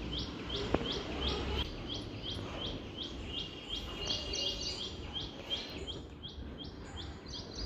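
A bird repeating a short high chirp at a steady pace of about three a second, with a second chirping voice joining in around the middle. A single sharp click sounds about three-quarters of a second in.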